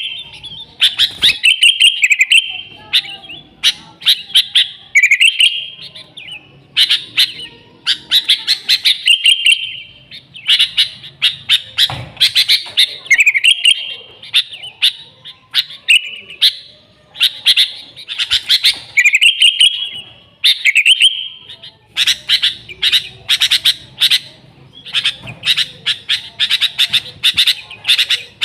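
Sooty-headed bulbul singing busily: quick runs of sharp chirps mixed with short warbled phrases, in bursts with brief pauses between them.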